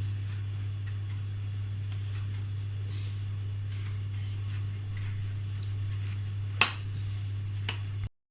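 A steady low hum with faint scattered ticks and taps, and a sharp click about six and a half seconds in.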